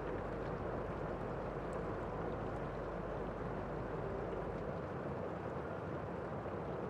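Steady rain falling outside a window, heard from inside a room: an even, unbroken hiss with a few faint drip ticks.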